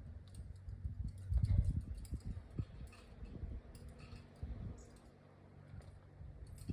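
Climber's gear clicking and scuffing during hard moves: scattered light clicks over irregular low knocks and rumble, heaviest a little over a second in.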